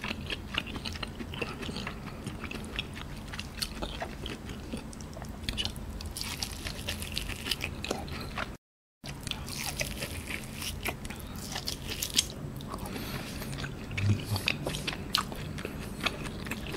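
Close-miked chewing of pieces of cooked Japanese A5 wagyu beef: many small mouth clicks and smacks. The sound cuts out completely for about half a second around the middle.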